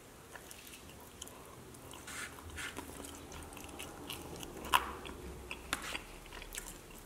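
A person biting and chewing pizza crust close to the microphone: soft wet chewing with scattered crunches, the sharpest crunch a little under five seconds in.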